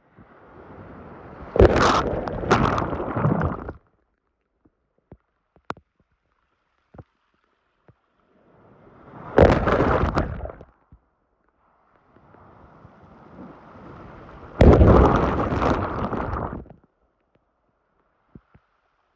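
Sea waves breaking three times. Each swells up, crashes suddenly and washes out over about two seconds, with lulls in between.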